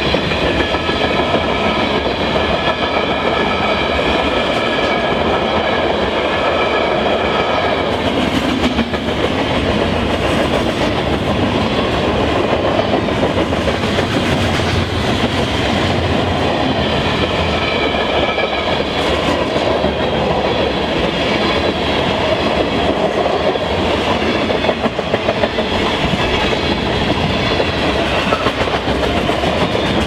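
A train rolling past close by: steady, loud rolling noise of wheels on rail with the clickety-clack of cars over the rail joints. A high ringing tone rides over it for about the first eight seconds and returns briefly later.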